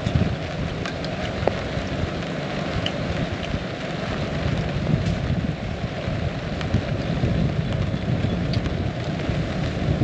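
Heavy rain falling steadily, with scattered sharp ticks of single drops over a low, fluctuating rumble.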